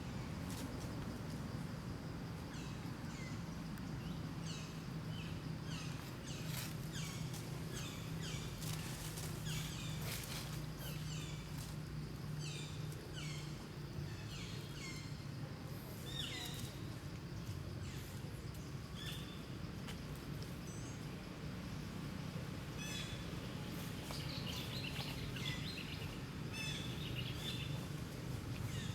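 Many short, high chirping calls in irregular quick succession, denser near the end, over a steady low outdoor hum.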